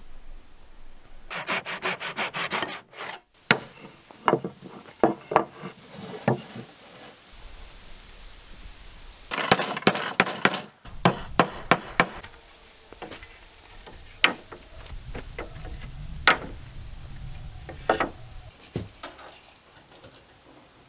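Wood being sawn by hand in two short bursts of quick strokes, with single sharp knocks and taps of wood in between.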